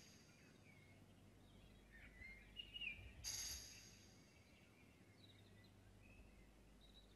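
Faint outdoor ambience with scattered faint bird chirps, and one short high-pitched buzz about three seconds in.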